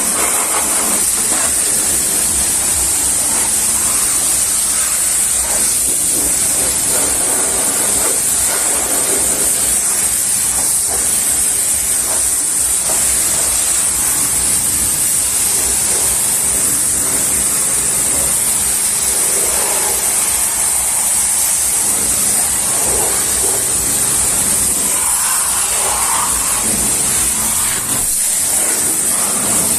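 Pressure washer spraying water onto a car, a loud, steady hiss with no break.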